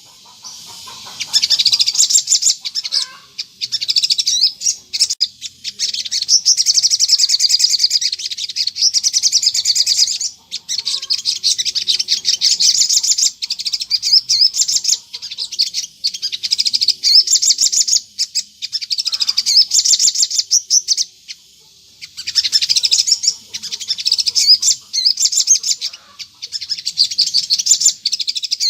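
Sogon (crimson sunbird) singing in full, non-stop voice: fast, high chittering trills in runs of several seconds with brief pauses. This is a lure recording meant to make wild sogon answer.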